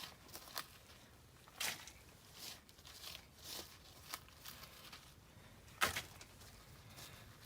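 Irregular scuffs and clicks spaced about a second apart, like footsteps, with one sharper knock about six seconds in.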